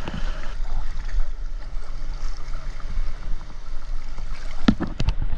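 Seawater sloshing and gurgling around a swimmer's camera, with a low steady hum for a couple of seconds midway and a few sharp knocks near the end.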